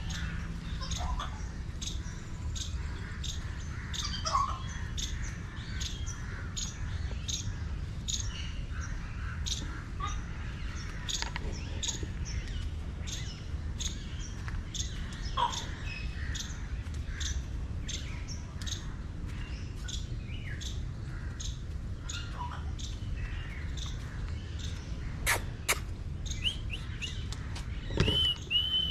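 Birds chirping continually, short high chirps coming two or three times a second over a low steady rumble. A few louder calls and a clearer whistled call come near the end, with a couple of sharp clicks.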